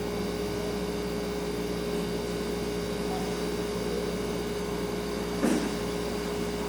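Refrigerator running with a steady hum over a soft hiss of room tone. A single short knock about five and a half seconds in.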